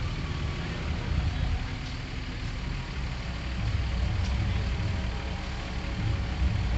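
Motor vehicle engines idling close by in slow street traffic, a steady low rumble.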